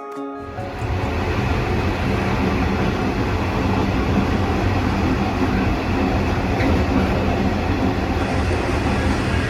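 V/Line N set train running along the line: a steady, even rumble of train and rail noise.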